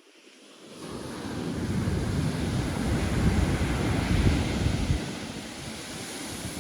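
Ocean surf: a wave breaking and washing ashore, swelling over the first two seconds and easing after about five, with wind buffeting the microphone.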